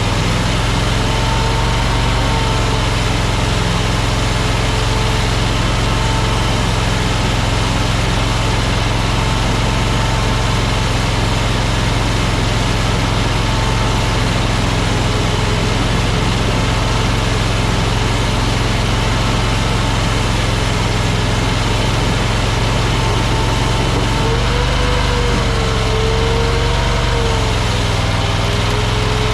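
Engine of a new AGT LRT23 mini track loader running steadily, with a whining tone above it that wavers in pitch. About 24 seconds in, the whine jumps higher and wobbles up and down as the load on the machine changes.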